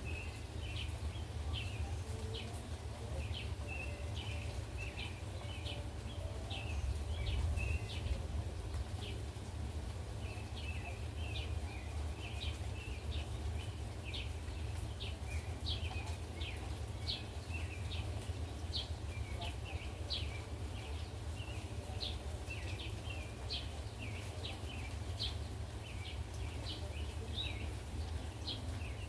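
Birds chirping: many short, high calls, a few each second, over a steady low rumble.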